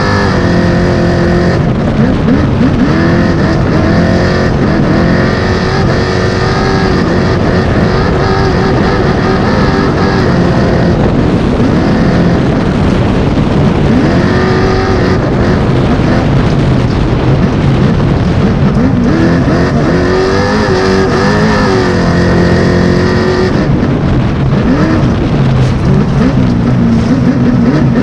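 A 905-horsepower all-wheel-drive trophy truck's engine at full race pace, heard from on board. It is loud throughout, its pitch climbing and dropping again and again as it accelerates, shifts and lifts.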